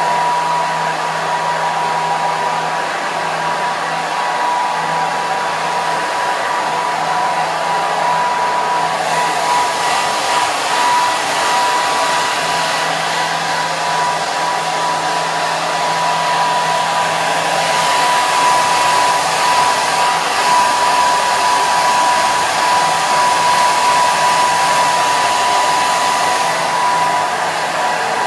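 Hair dryer running steadily: a continuous blowing hiss with a steady whine from its motor and fan.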